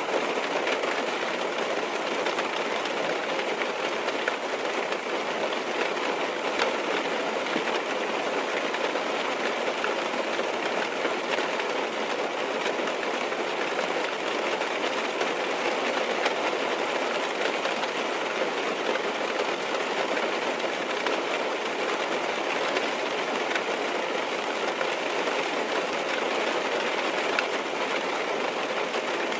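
Steady rain falling on a car's roof and windows, heard from inside the cabin: an even hiss with faint scattered drop taps.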